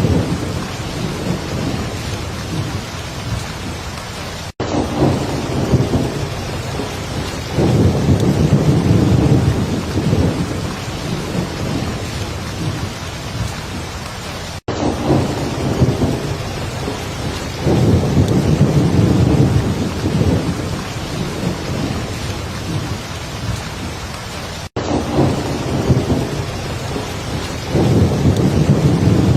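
Heavy rain falling steadily, with low thunder rumbling and swelling every few seconds. Three momentary dropouts about ten seconds apart break the sound.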